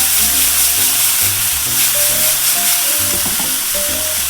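Asparagus frying in a hot oiled pan with a splash of white wine, a steady loud sizzle as the alcohol cooks off. Quiet background music plays underneath.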